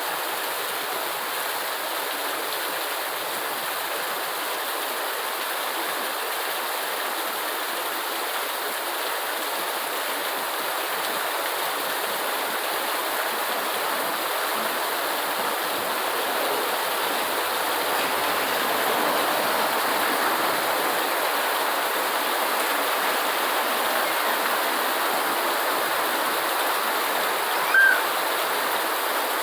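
Steady rain, an unbroken even hiss of rushing water. Near the end a brief high chirp cuts through, the loudest moment.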